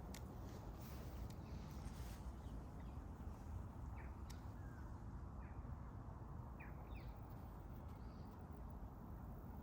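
Outdoor park ambience: a few short, faint bird chirps, mostly in the second half, over a steady low rumble.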